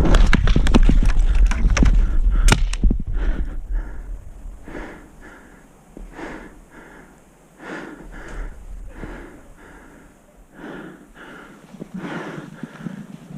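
A paintball player moving on foot: rustling and wind buffeting the microphone, loudest in the first few seconds, with one sharp click about two and a half seconds in. This is followed by regular softer strokes of footsteps and hard breathing.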